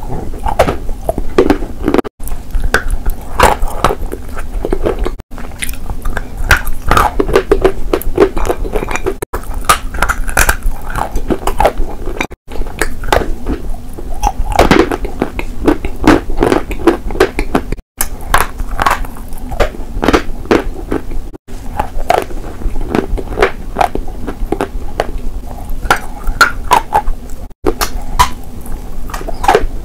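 Biting and chewing of edible chalk bars: a dense run of crisp crunches and wet mouth sounds, with brief silent gaps every few seconds.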